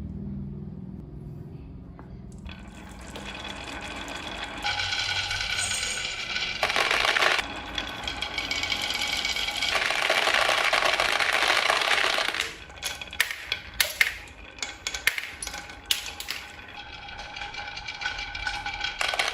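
A small motor whirring with a steady whine, starting about two seconds in. It cuts off about two-thirds of the way through, and a quick run of sharp clicks and clinks follows.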